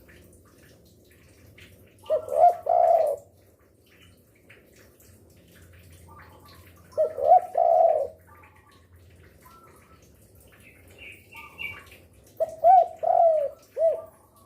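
Spotted dove (derkuku) cooing: three phrases about five seconds apart, each a quick run of low coos. The last phrase is longer, with about four notes.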